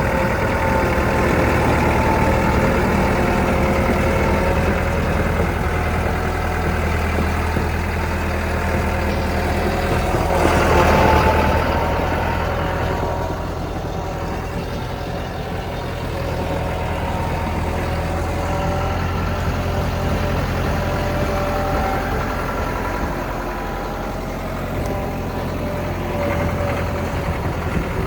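Diesel engine of a Morooka MST600 crawler dump truck running steadily, with a louder, rising stretch about ten seconds in before it settles again.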